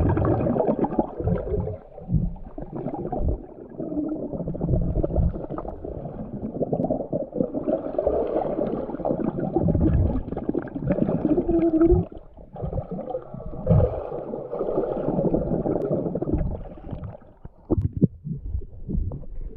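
Swimming-pool water heard underwater, muffled and dull: uneven sloshing and bubbling from a swimmer moving through it, with a few sharper knocks in the second half.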